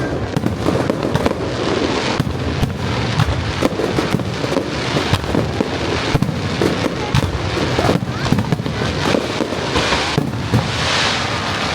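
Fireworks display: a dense barrage of aerial shells bursting in quick succession. Near the end it gives way to a bright crackling hiss.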